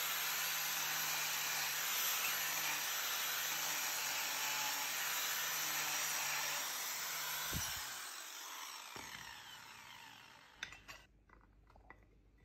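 Electric grinder running against steel, then switched off about seven seconds in and spinning down over a couple of seconds. A few light clicks follow.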